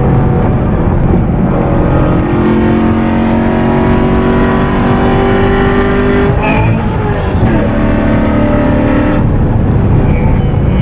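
2014 Corvette Stingray's 6.2-litre LT1 V8 through a Borla exhaust, heard from inside the cabin under way. The engine note rises steadily, breaks off briefly about six seconds in, then carries on at a lower, steady pitch.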